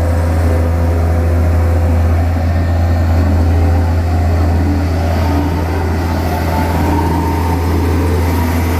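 Diesel engine of heavy road-building machinery running steadily, with a deep constant hum.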